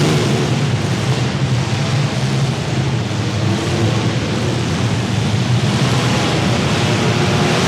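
Several compact demolition derby cars' engines running and revving together, their pitch wavering up and down.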